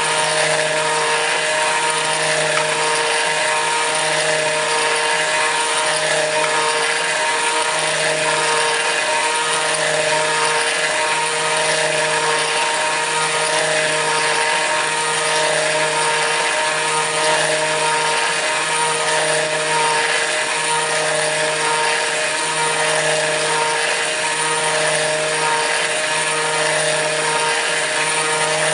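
Kress FME-1050 router spindle on a CNC milling machine running at high speed while milling aluminium: a steady high whine over a constant cutting noise, with a low throb that pulses about once a second.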